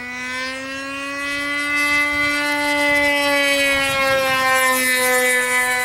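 Engine of a radio-controlled model airplane droning as the plane flies past, getting louder over the first couple of seconds, its pitch dropping slightly in the second half.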